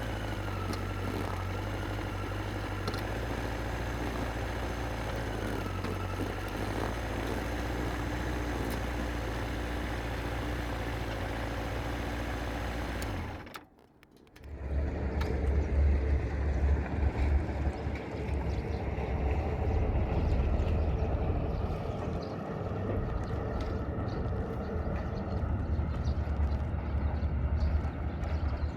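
Yamaha XJR1300's air-cooled inline-four running under the rider, with a steady low rumble. About halfway through the sound cuts out abruptly for about a second, then comes back louder and heavier, with a fluctuating low rumble.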